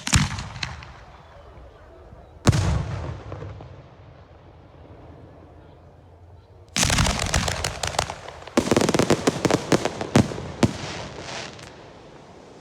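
Firework girândola salvo of rockets: one loud bang right at the start and another about 2.5 s in, each fading away, then from about 7 s a rapid, dense string of many bangs that swells again a second and a half later and dies out after about five seconds.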